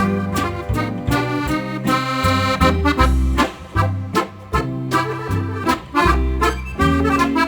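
Accordion playing an instrumental tune with a rhythmic bass accompaniment.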